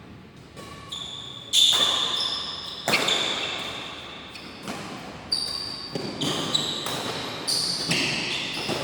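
Badminton rally: about six sharp racket strikes on the shuttlecock, the loudest about one and a half seconds in, each followed by an echo from a large hall. High-pitched squeaks sound between the strikes.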